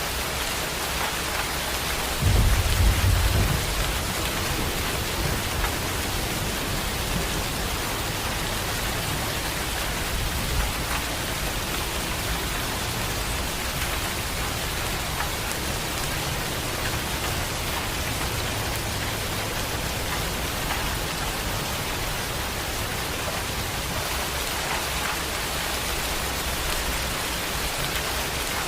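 Heavy rain falling steadily, with a loud clap of thunder about two seconds in that keeps rumbling low and more faintly for a long while after.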